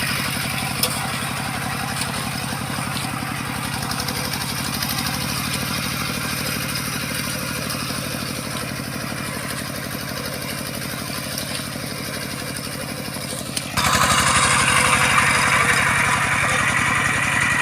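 Bulldozer's diesel engine running steadily with an even pulse. About fourteen seconds in it suddenly gets louder, with a harsher hiss and clatter added on top.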